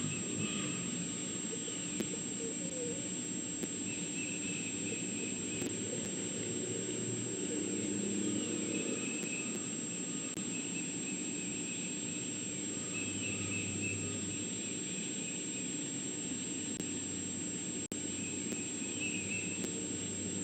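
Outdoor ambience: a steady low rumble and hiss with a constant high-pitched whine, and faint chirping that comes and goes in short stretches.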